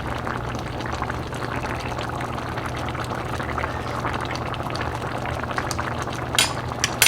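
Pot of black bean chicken chili bubbling at a simmer on the stove: a steady crackly bubbling over a low hum, with a couple of sharp clicks near the end.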